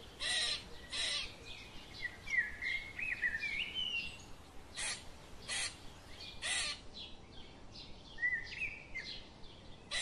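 Wild birds calling: five short harsh calls, two near the start and three in the middle, with quick rising chirps between them.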